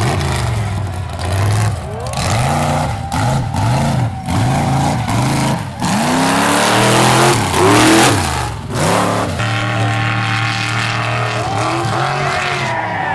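Mud truck engine revving hard in repeated rises and falls, then a loud run at full throttle with a rushing noise from about six to nine seconds in, settling into a steadier engine note.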